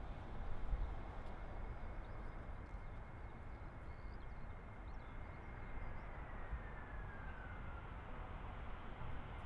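easyJet Airbus A320 jet engines on final approach: a steady high whine that drops in pitch about six seconds in as the airliner passes, over gusty wind rumbling on the microphone.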